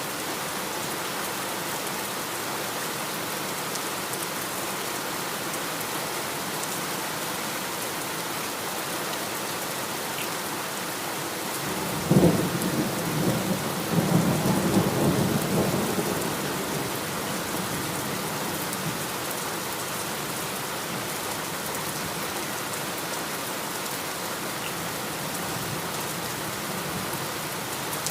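Steady heavy rain falling, with a clap of thunder about twelve seconds in that rumbles on for four or five seconds before fading back under the rain.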